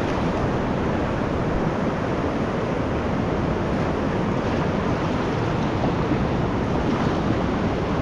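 Steady rush of whitewater on a running creek, an even roar of rapids without a break.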